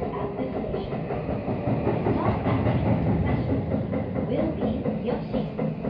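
Tokyu Meguro Line commuter train running, heard from inside the car, with a steady rush and rapid clatter of wheels on rail joints as it enters a station.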